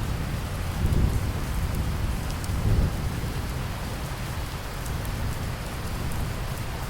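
Steady rain falling, with a low rumble of thunder that swells about a second in, peaks again near three seconds, then fades back under the rain.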